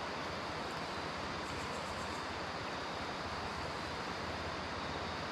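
A steady rushing noise that holds an even level throughout, with a few faint high ticks about one and a half to two seconds in.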